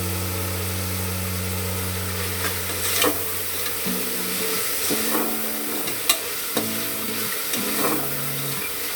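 Onion and spice masala sizzling in oil in a pan while a spoon stirs it, with scattered sharp knocks of the spoon against the pan. A low steady hum runs under the first half.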